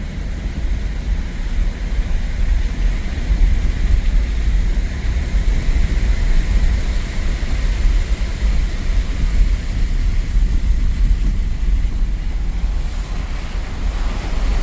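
Truck driving over a rough, snowy road: a heavy, steady low rumble of engine and tyres.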